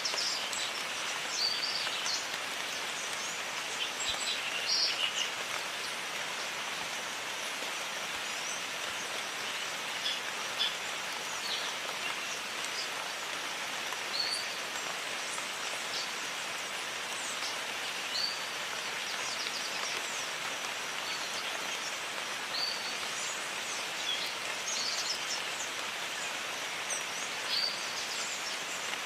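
Steady rain falling in a jungle, an even hiss, with many short bird chirps scattered through it.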